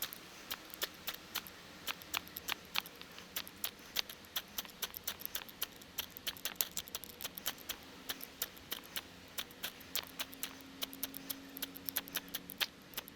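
Ferro rod scraped hard with a steel striker over and over, a rapid, irregular run of sharp rasping scrapes, several a second, each throwing sparks that fail to light the tinder.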